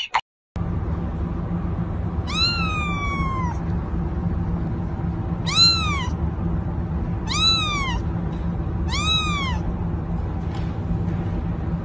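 Kitten meowing four times, each call rising and then falling in pitch, the first one longer than the rest. A steady low hum runs underneath.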